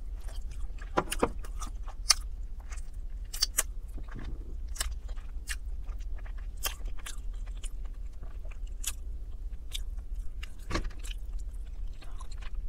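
Close-miked chewing of roasted chicken: wet mouth smacks, lip clicks and soft crunches, coming irregularly, over a steady low hum.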